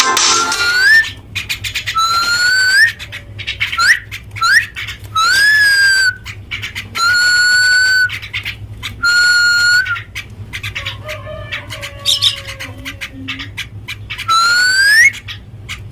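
Common myna giving a series of loud, clear whistled notes, about eight in all with short gaps between, each held for up to a second and several ending in a quick upward flick.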